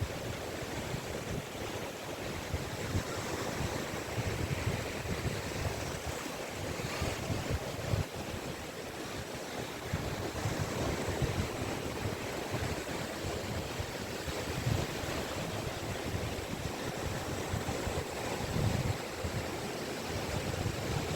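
Sea waves washing onto a beach, a continuous hiss of surf with an uneven swell. Low rumbling gusts of wind on the microphone run through it.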